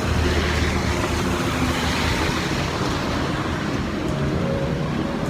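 Steady road traffic noise: a low engine hum under an even rushing hiss.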